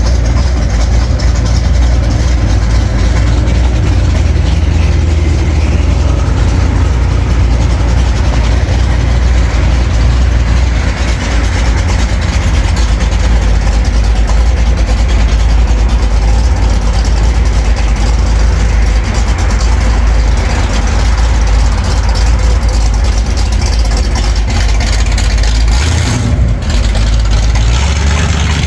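Car engine running at a steady idle close by, a loud deep rumble.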